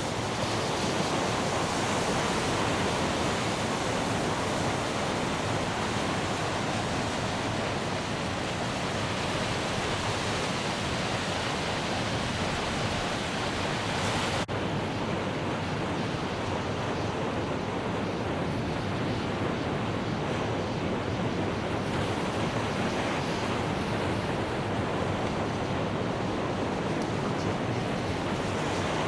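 Steady rush of wind noise on the microphone while riding a motorcycle, with a brief break about halfway through.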